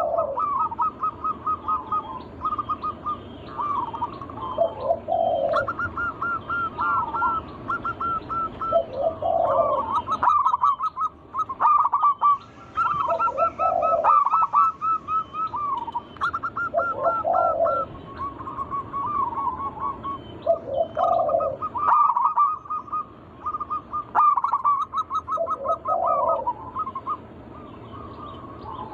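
Zebra doves (perkutut) cooing. Each phrase is a quick stuttering run of high notes followed by a few lower, drawn-out coos, repeated every few seconds, with more than one phrase sometimes overlapping.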